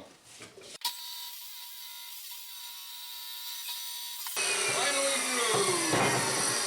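Electric saw cutting steel bar. It starts about a second in with a steady high whine, then about four seconds in turns louder and rougher, with falling pitches as the blade works through the metal.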